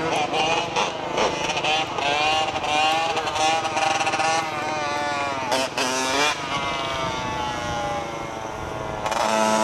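Dirt bike engines running and revving, the pitch swelling and dropping back several times, with a louder rev near the end.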